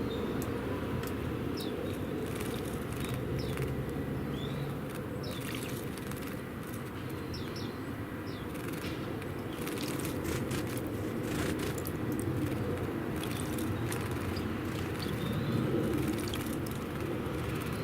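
Small songbirds at a bird bath: scattered short, high chirps and little splashes and flicks of water, over a steady low rumble in the background.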